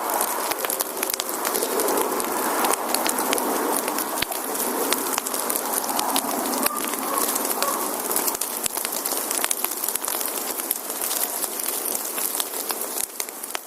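Firewood burning in a campfire: a steady hiss full of sharp crackles and pops, fading out near the end.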